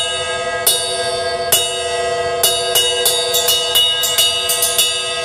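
Bell of a Zildjian ride cymbal struck with Lightning Rods multi-rod sticks, each hit leaving a sustained, bright bell tone. The strikes come slowly at first, then quicken to several a second in the second half.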